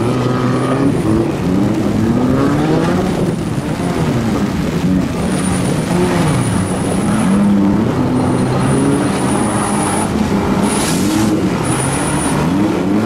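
Several four-cylinder demolition derby cars' engines revving, their pitches rising and falling over each other as the cars accelerate and back off. Two short crashes are heard near the end.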